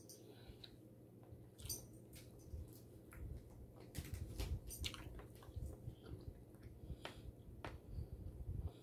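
Faint close-up chewing of shrimp fried rice, with scattered small wet mouth clicks.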